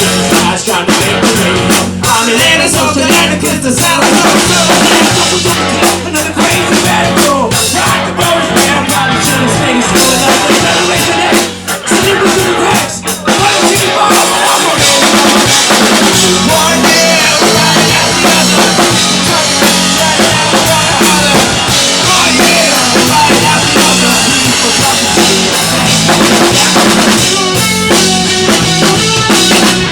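Live rock band playing loudly, with the drum kit (kick and snare) driving alongside bass and electric guitar, and two brief drops in the sound about twelve seconds in.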